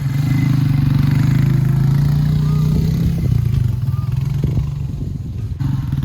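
Four-wheeler (ATV) engine revving up under throttle, holding steady for a couple of seconds, then easing off, with a sudden change in the engine note near the end.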